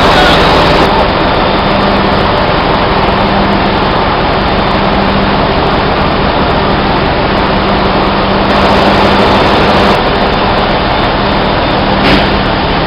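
Loud, steady din of running engine-room machinery with a constant low hum. There is a single sharp knock near the end.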